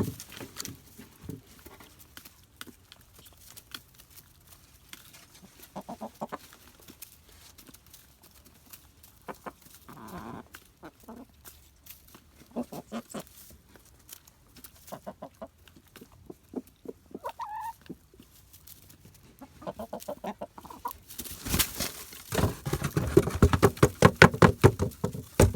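Buff Orpington hens clucking softly and intermittently as they feed on live crickets, with one short pitched call about two-thirds of the way through. Near the end comes a loud stretch of dense rustling and clatter.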